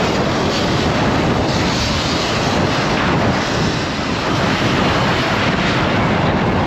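Steady wind rushing over the microphone of a rider moving at speed on an electric dirt bike.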